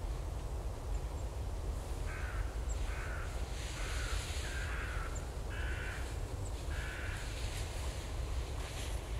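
A bird calling about six times in a series of short, evenly pitched calls, over a steady low wind rumble.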